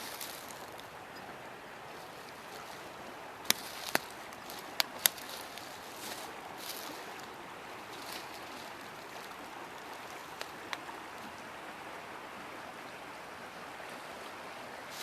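Steady rushing of a river, with four sharp clicks about three and a half to five seconds in and two fainter ones later.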